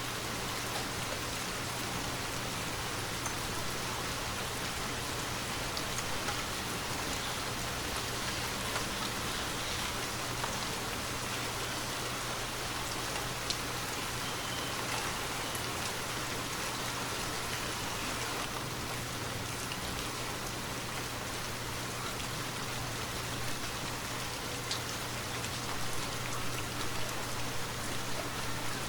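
Steady rainfall, a dense even hiss with sharper single drops ticking now and then, a little more uneven near the end.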